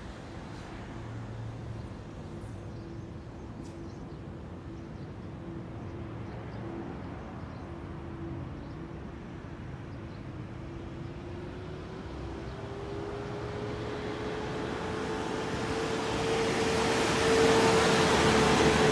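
A motor vehicle drawing near, its engine note rising slowly in pitch as the sound builds to its loudest near the end.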